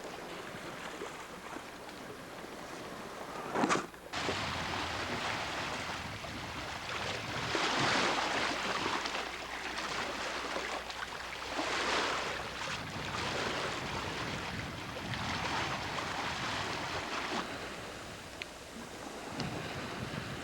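Sea water rushing along a Baba 35 sailboat's hull under way, with wind; the rush swells and eases every few seconds as the boat moves through the waves. A brief loud burst comes about four seconds in.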